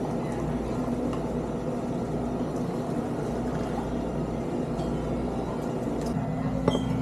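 Semi-truck tractor's diesel engine running steadily with a low hum, its tone shifting slightly about six seconds in, and a short click near the end.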